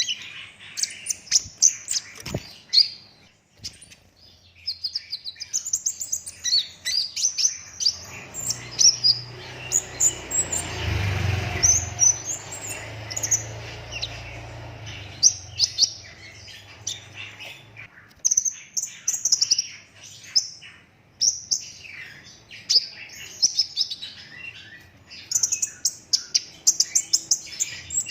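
Young kolibri ninja sunbird singing a fast, dense run of high twittering chirps, with a few short breaks. A low hum runs underneath for several seconds in the middle.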